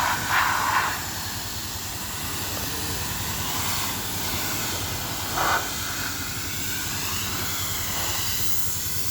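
Car-wash spray wand hissing steadily as it jets water or steam, with brief louder spurts near the start and about halfway through.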